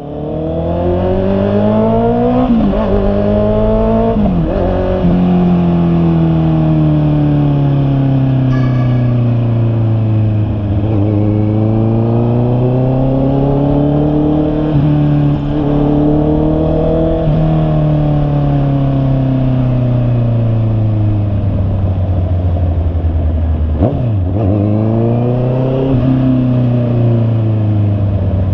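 Honda CB650R's inline-four engine accelerating through the gears, the pitch climbing and dropping sharply at two quick upshifts in the first few seconds. The revs then slowly fall and rise several times as the motorcycle rides on.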